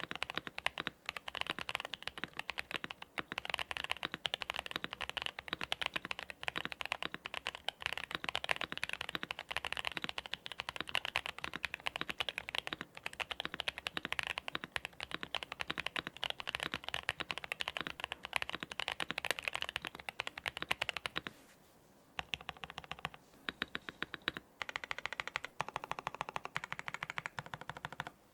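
Continuous fast typing on a Novelkeys NK65 Entry Edition mechanical keyboard with lubed Boba U4T tactile switches, a polycarbonate plate and Domikey Dolch keycaps. About three-quarters of the way through the typing stops for about a second, then starts again in shorter runs.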